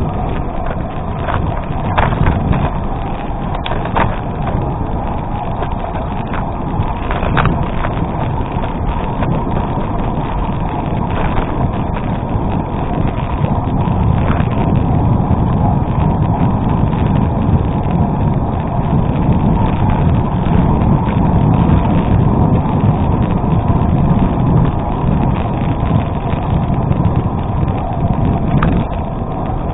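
Gravel bike riding on an unpaved road: wind rushing over the microphone and tyres rolling over gravel, with scattered sharp clicks and rattles from stones and the bike.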